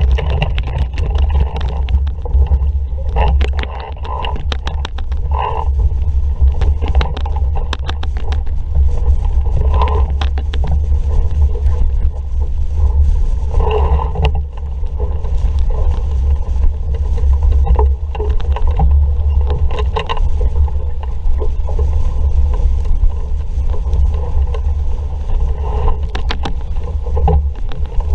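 A sailing dinghy under way in a strong breeze: heavy wind rumble on the microphone, with water rushing and splashing along the hull and frequent short knocks and rattles.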